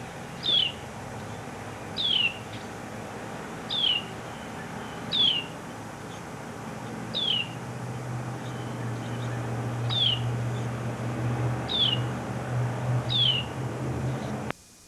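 A bird calling with a short, high, downward-slurred note, repeated eight times about every one and a half to two seconds, over a steady low hum that grows louder about halfway through. The sound cuts out briefly just before the end.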